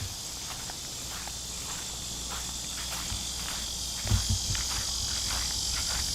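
Insects chirring in a steady high-pitched chorus, with footsteps crunching at walking pace and a louder low thump about four seconds in.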